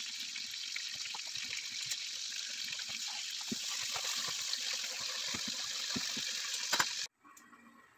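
Chicken pieces sizzling in a frying pan, a steady hiss with light clicks of metal tongs against the pan as the pieces are turned; it cuts off suddenly about seven seconds in.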